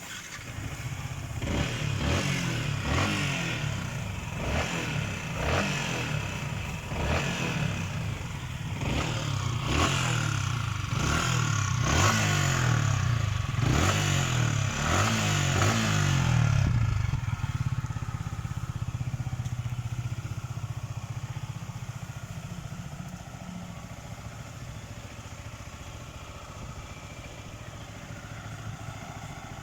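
Yamaha MT-15's 155 cc single-cylinder engine revved in a long series of short throttle blips, about one a second, for roughly sixteen seconds, then dropping back to a steady idle that slowly grows quieter.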